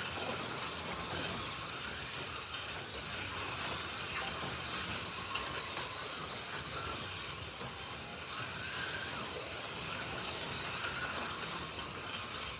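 Slot.it 1/32-scale slot cars running laps, their small electric motors whining steadily, rising and falling in pitch as the cars speed up and slow down.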